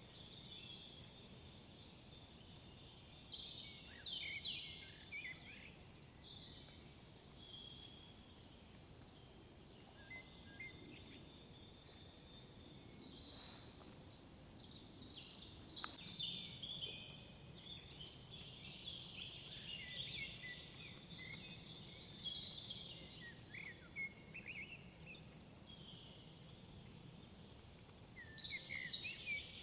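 Several songbirds singing in woodland, overlapping chirps and warbling phrases, with a high, fast trill repeated about four times.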